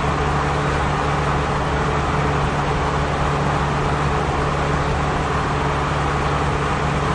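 Steady hum and road noise of a car driving along, even throughout.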